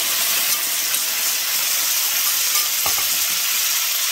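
Marinated chicken pieces sizzling in hot oil in a wok, a steady frying hiss, with one light knock about three seconds in.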